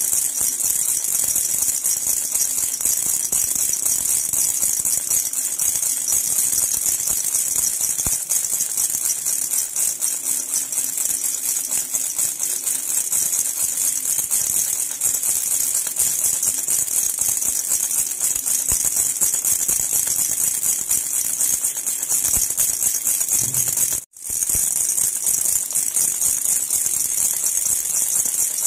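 Jhunjhuna, an Indian baby rattle, shaken continuously in a steady, bright jingling rattle. It cuts out for a split second near the end, then carries on.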